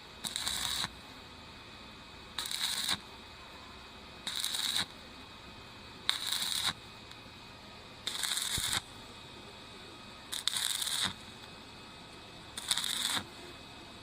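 Arc welding on thin stainless steel pipe in short stitch bursts: the arc crackles and hisses for about half a second, then stops, seven times at roughly two-second intervals.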